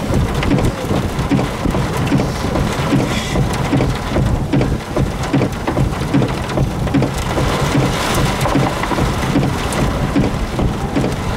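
Heavy rain from a tornado-producing supercell falling hard and steadily, with a continuous low rumble underneath.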